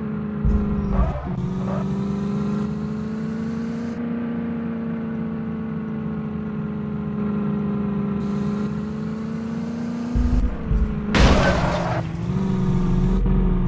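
Tractor diesel engine running steadily, its pitch sagging and recovering a little, with a loud burst of noise about eleven seconds in.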